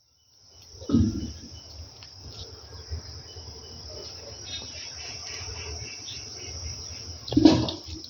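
Steady, high-pitched shrilling of an insect chorus, with a low rumble underneath and faint short chirps. Two louder bumps come about a second in and near the end.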